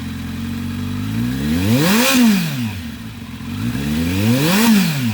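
Kawasaki Z900 inline-four with an SC Project aftermarket exhaust idling and being revved twice with quick throttle blips, each rev rising and falling back to idle; the first peaks about two seconds in, the second near the end.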